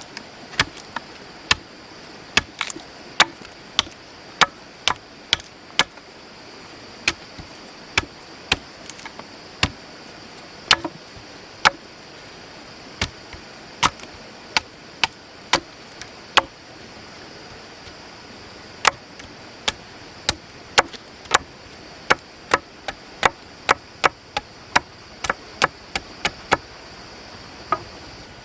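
Repeated sharp chopping blows of a blade into wood, roughly one to two a second with a couple of brief pauses, over a steady high-pitched hum in the background.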